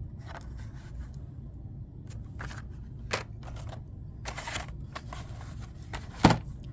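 Handling of carded Hot Wheels die-cast cars: plastic blister packs and cardboard backings clicking, rustling and scraping against each other as they are picked up and set down, with a sharp knock near the end.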